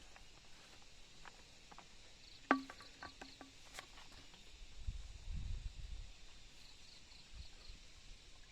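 A single sharp knock with a short ringing tone, followed by several lighter taps over about a second, against a faint outdoor background with faint high chirps.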